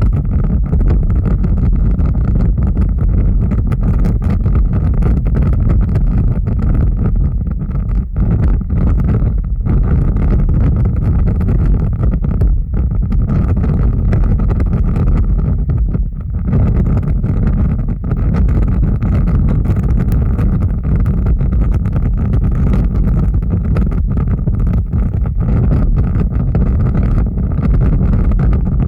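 Fire burning steadily: a dense, loud low rumble with many small crackles and pops through it, dipping briefly twice near the middle.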